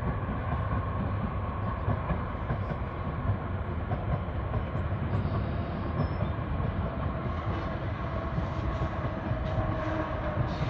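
A train running along the tracks: a steady low rumble with faint tones above it, unbroken throughout.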